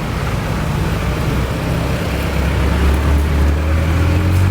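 Traffic noise with a nearby motor vehicle's engine running, its low hum rising slowly in pitch through the second half as it accelerates.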